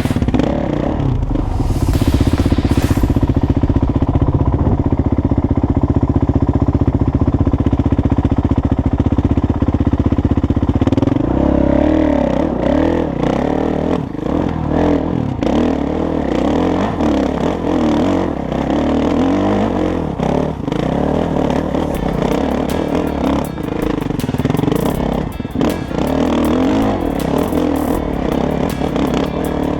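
Kawasaki KX450 dirt bike's single-cylinder four-stroke engine running under way. It holds a steady pitch for about the first ten seconds, then revs up and down repeatedly as the rider works the throttle.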